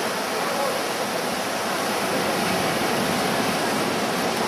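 Steady rushing noise of surf breaking on the beach, even and unbroken throughout.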